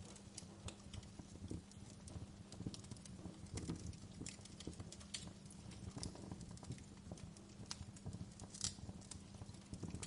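Wood fire crackling, with irregular sharp pops and snaps over a steady low rumble; one louder pop near the end.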